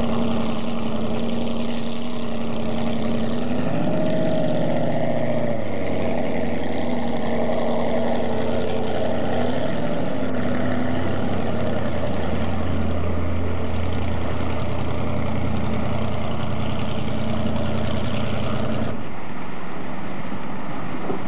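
Motorboat engine running at low speed, its pitch rising briefly about four seconds in and again around ten seconds in. The engine tone drops out near the end, leaving a rushing noise.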